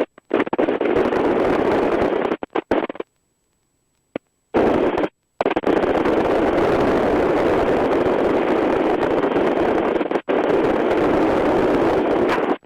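Rushing wind and rotor noise inside a RotorWay A600 Talon helicopter cockpit, heard over the headset intercom, which cuts in and out abruptly several times in the first few seconds, then holds steady.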